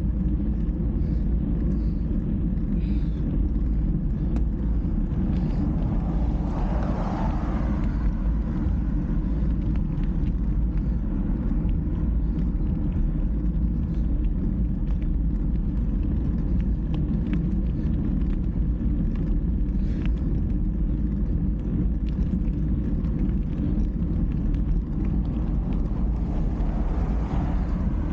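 Steady low rumble of wind and road noise during a ride, with a swell of noise about seven seconds in and another near the end.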